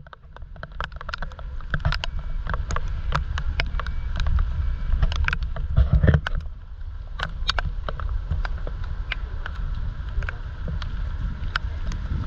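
Typhoon wind buffeting the microphone with a low rumble, while raindrops strike close by as irregular sharp ticks.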